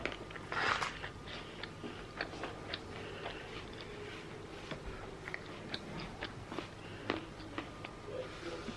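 A person biting into and chewing an apple slice coated in dark chocolate and crushed almonds. There is a crunchy bite a little over half a second in, then soft, irregular chewing clicks.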